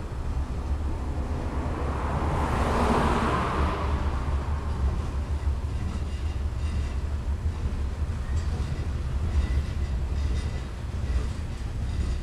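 Freight train of covered grain hopper cars rolling past, a steady low rumble of wheels on rails. A rush of noise swells and fades about two to four seconds in, and faint clicking comes through in the later seconds.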